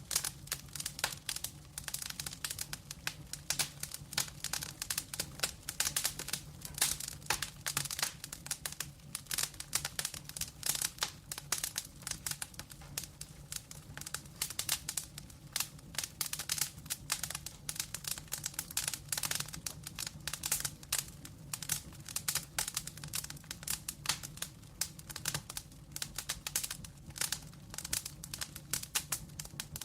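Wood fire burning in a fireplace, crackling with dense, irregular pops and snaps, over a steady low hum.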